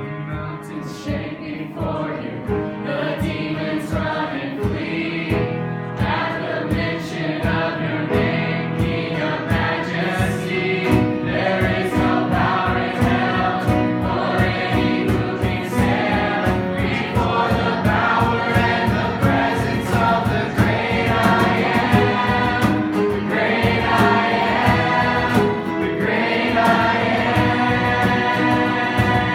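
Live congregational worship song: group singing over a band with a steady drum beat and guitar.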